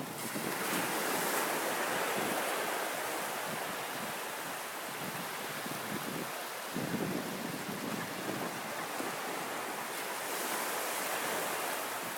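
Ocean surf breaking and washing up the beach, a steady hiss that swells about a second in and again about ten seconds in, with wind buffeting the microphone.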